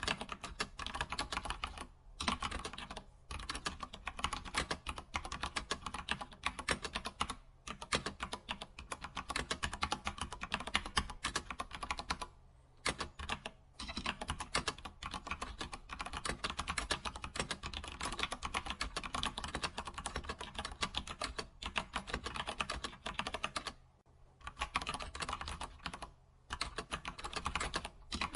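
Computer keyboard typing: fast, continuous runs of key clicks, broken by brief pauses of about half a second every few seconds.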